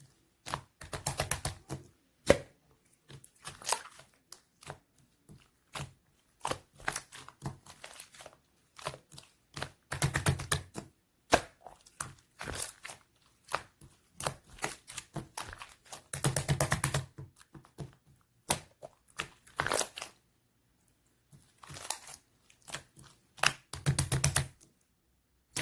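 Clear slime being squeezed and pressed by hand, giving irregular runs of crackly, clicky pops, with a few louder, squishier bursts of about a second each.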